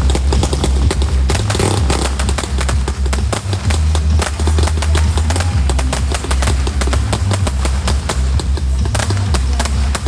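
Fireworks going off in a rapid, dense string of pops and crackles, over music with a heavy, steady bass.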